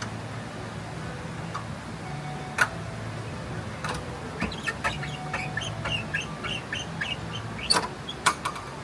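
A bird calling in a quick series of short, high chirps, about three a second, over a steady low hum. A few sharp clicks stand out, one a few seconds in and two near the end.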